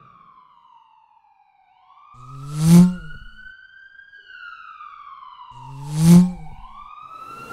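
Police siren wailing, its pitch sliding slowly down and back up, about one rise and fall every four to five seconds. Two short, loud sweeping sounds cut across it, about a third of the way in and again near the end.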